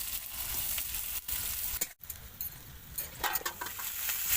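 Chopped onions and cumin seeds sizzling in hot oil in a kadai, with a spatula stirring and clicking against the pan. The sizzle cuts out for a moment about two seconds in.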